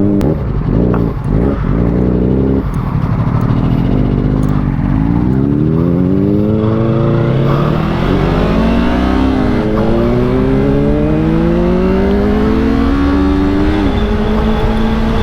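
Yamaha R3's parallel-twin engine accelerating hard, the revs climbing in several rising sweeps with a brief dip at each upshift, then settling to a steady cruise near the end.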